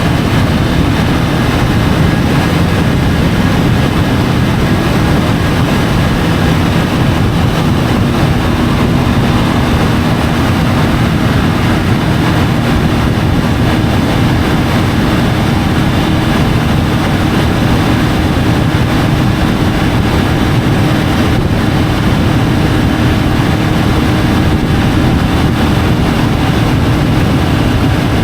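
Triumph Tiger 850 Sport's inline three-cylinder engine running steadily at cruising speed under wind rush, recorded by a camera mounted on the motorcycle. The level holds even throughout, with no gear changes or revving.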